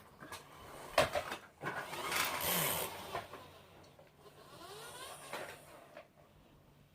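Small plastic toy vehicles being handled: a sharp click about a second in, then rattling and scraping for a second or two that fades to faint clatter.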